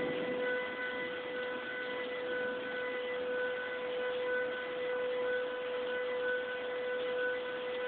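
A steady, unvarying droning hum heard in the sky, made of several even overtones, with one higher tone pulsing in a regular pattern about once a second.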